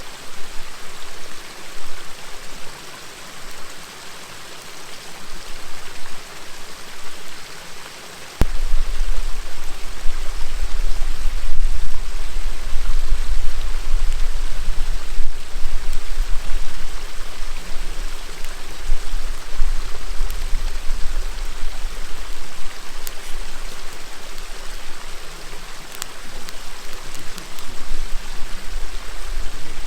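River water murmuring steadily, with a few faint sharp pops from a crackling campfire. About eight seconds in, a loud low rumble sets in suddenly and keeps going underneath.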